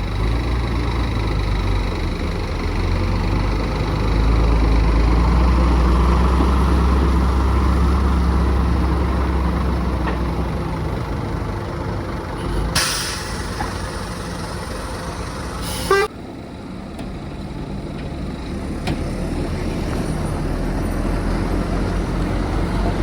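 Heavy truck's diesel engine rumbling as it moves, loudest in the first half. Two short bursts of air-brake hiss come a little after halfway, the second sharper and a few seconds after the first.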